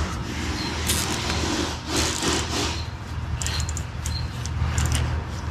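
Hands working on car parts: irregular rasping and rubbing, with a few short clusters of light clicks, over a steady low hum.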